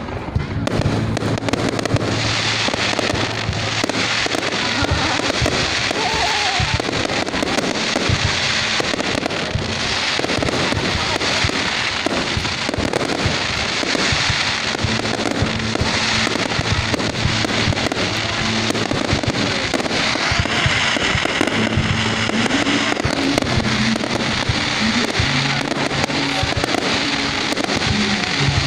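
Fireworks going off in rapid succession with constant crackling, over music.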